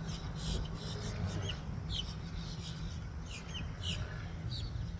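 Small birds chirping, many short high chirps repeating, over a steady low rumble.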